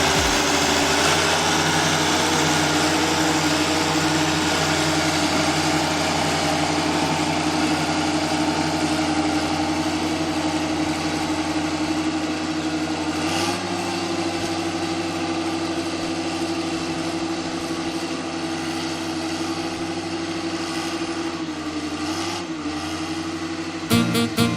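Restored Fordson Major tractor engine idling steadily, its speed shifting slightly a little past halfway and again near the end.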